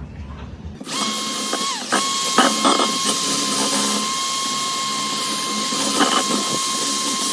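Electric power tool switching on about a second in and running at a steady high whine. Its pitch dips briefly as it takes load, and there are some scraping and knocking contacts.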